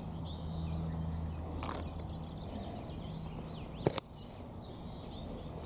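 Small songbirds calling, with many short high chirps and downward-sliding notes, while two sharp clicks sound, the louder about four seconds in, over a faint low hum.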